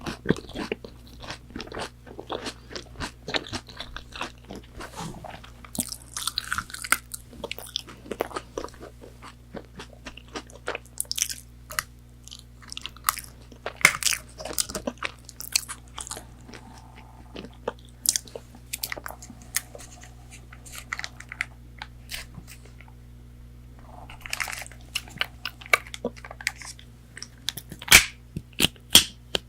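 Close-miked biting and chewing of fried chicken nuggets: irregular crisp crunches, a few of them sharper and louder near the end, over a faint steady low hum.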